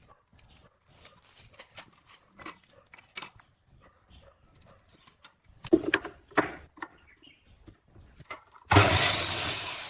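Tools and wood being handled, with scattered clicks and two louder knocks. Then a power tool runs in a loud burst for about a second near the end and winds down with a falling whine.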